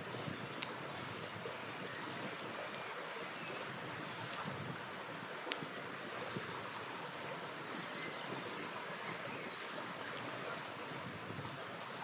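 River water flowing steadily with a campfire crackling beside it; two sharp pops from the burning wood, one under a second in and a louder one about five and a half seconds in.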